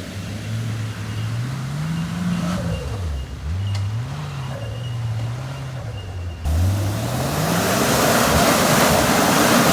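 Turbocharged 4x4's straight-six engine revving up and down several times under throttle. About two-thirds in it is opened up hard and a loud rushing noise comes in and builds.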